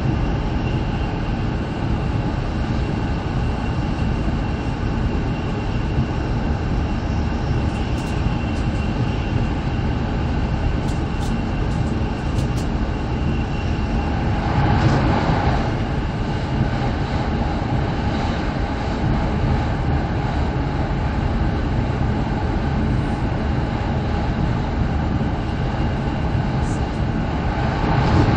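Steady rumble and rush of an E7 series Shinkansen running at high speed, heard from inside the passenger cabin, with a brief swell in the noise about halfway through.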